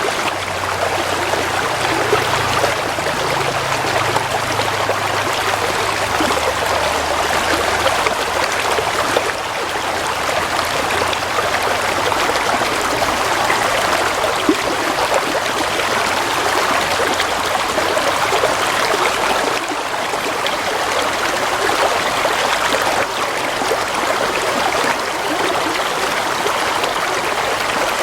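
Gentle flowing water, as of a small stream, running steadily and evenly.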